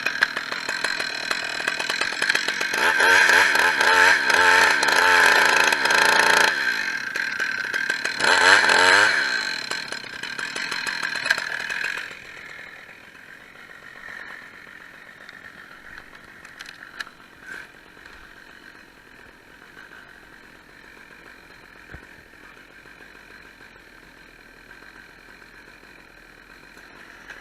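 Two-stroke chainsaw running and revving up and down several times, then shutting off about twelve seconds in. Afterwards only a quiet background with a few faint clicks.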